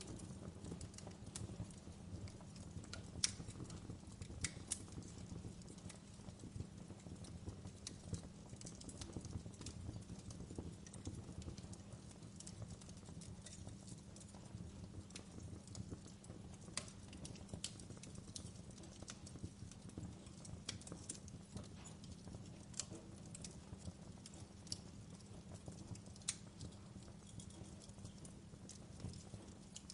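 Wood fire crackling in a fireplace: a steady low rumble of burning with frequent sharp pops and snaps at irregular intervals, the loudest pop about three seconds in.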